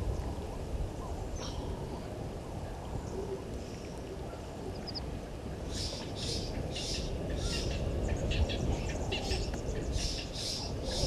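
Birds calling over steady low background noise; from about halfway through, a run of short, high calls repeats about twice a second.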